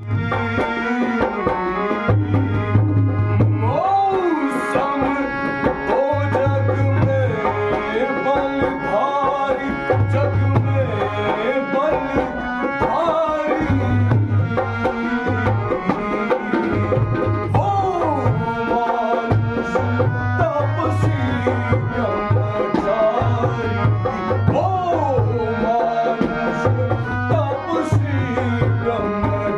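Tabla playing under steady held accompaniment tones, with a voice singing in long sliding melodic phrases: a sung Ramlila rehearsal.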